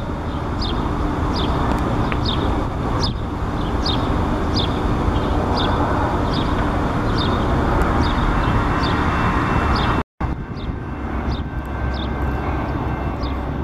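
Double-stack freight train rolling past with a steady rumble of wheels on rail, while a Metra EMD F40PH diesel locomotive approaches. A short high chirp repeats about twice a second over the rumble.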